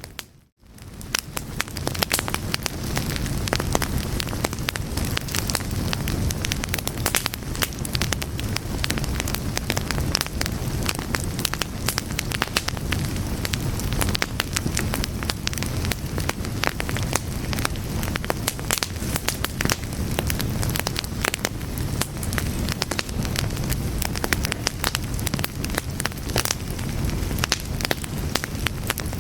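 Fire crackling, with dense irregular pops and snaps over a steady low rumble. The sound drops out briefly about half a second in and fades back up over the next second or so.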